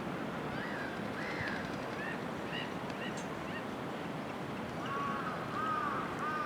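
Black-headed gulls calling: a run of short calls in the first few seconds, then a louder cluster of calls about five seconds in, over a steady background hiss.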